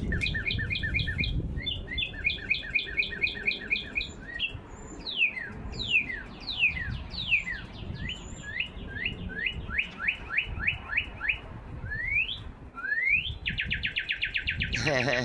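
Bird-like song from a toy singing bird and the real birds answering it. First comes a series of short repeated chirps, then downward-sliding whistles, then quick rising whistles, and a fast trill near the end.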